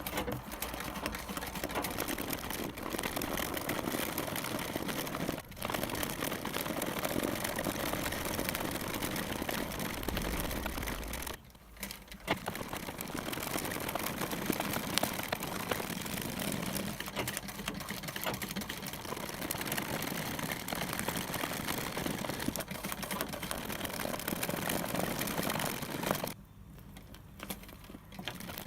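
Needle and thread working through fabric stretched taut in an embroidery hoop: a dense run of quick pokes and rasping thread pulls, with a short break about halfway and another near the end.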